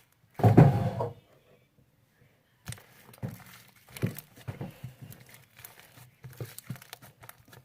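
Homemade glue slime being kneaded and pulled by hand, giving irregular sticky crackling and small popping clicks. A short louder burst of sound comes about half a second in, then a brief pause before the kneading sounds.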